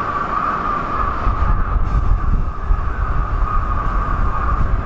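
Electric commuter train moving slowly through a station. A low rumble of wheels on the track swells about a second in, under a steady whine.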